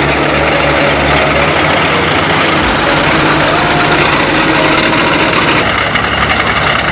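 Diesel tractor engines running steadily under ploughing load. Several engine tones at different pitches overlap and shift.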